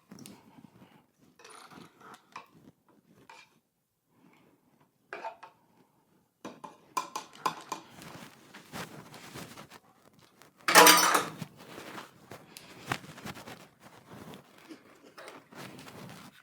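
Stirring nematodes into water in a plastic hose-end sprayer canister: scattered clinks and scrapes, getting busier about halfway through, with one louder clatter about eleven seconds in.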